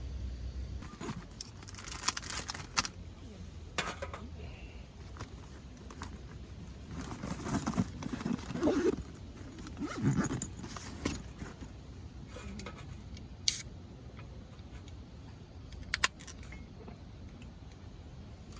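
Scattered handling noises: clicks, knocks, rustling and scraping, with a burst of rustling and scraping about halfway and two sharp clicks in the second half.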